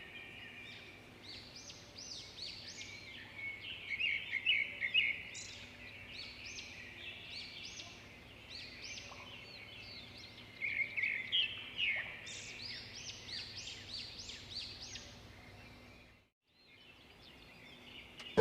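Birds chirping and singing in quick series of short high calls, with louder clusters about four and eleven seconds in; the calls stop shortly before the end.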